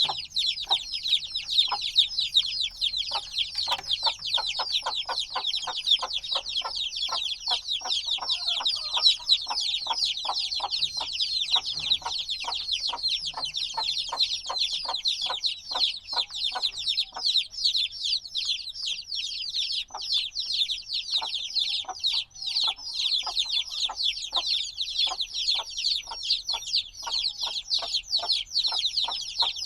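A brood of chicks a few days old chirping continuously, many high, rapid peeps overlapping at once.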